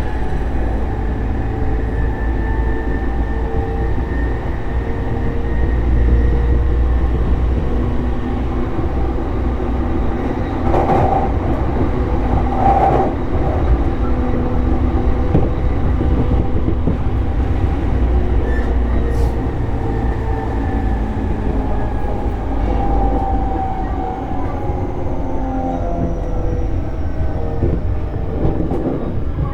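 Running sound inside a JR East E233-series electric train: a steady rumble of wheels on rail with the slowly gliding whine of the inverter-driven traction motors. A couple of sharper knocks come about eleven and thirteen seconds in.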